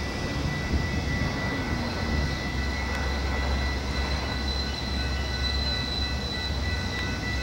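Low, steady rumble of a Metra diesel commuter train pulling away down the line, with thin steady high-pitched tones above it; a higher tone joins about two seconds in.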